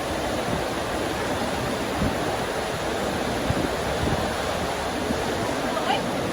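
Steady rain falling, an even hiss of water without a break, with a brief faint rising squeak near the end.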